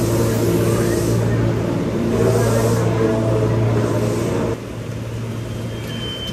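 Commuter train running: a steady low hum with the rumble and rush of the carriage. The level drops suddenly about four and a half seconds in, and a brief high beep sounds near the end.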